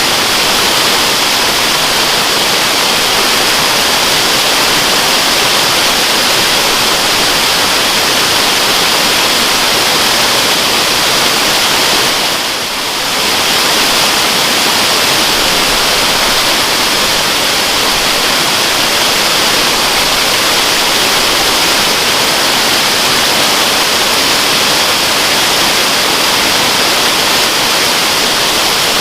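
Waterfall: falling water making a steady, loud rushing noise, hissy in the upper range, dipping briefly about twelve seconds in.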